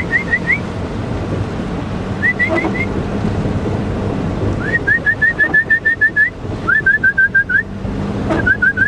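A person whistling for a dog in quick runs of short, rising chirped notes, about five bursts, over the steady hum of a vehicle driving.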